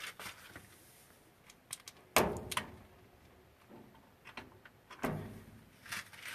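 Several sharp knocks and clatters, like something hard being handled or shut, the loudest about two seconds in and another strong one about five seconds in.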